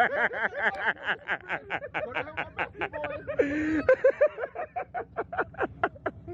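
A person laughing: a long run of short, quick chuckles, about five a second.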